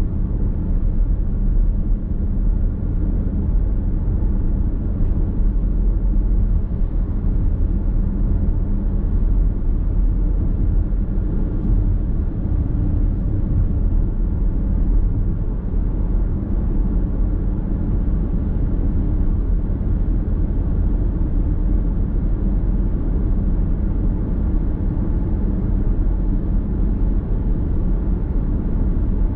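Steady driving noise of a car cruising on the road: tyre roar and engine hum heard from inside the cabin, even and unbroken throughout.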